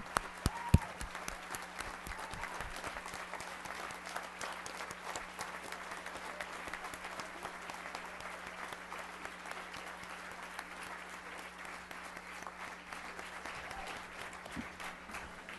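Audience applauding steadily, with two sharp knocks under a second in. A steady low hum runs underneath.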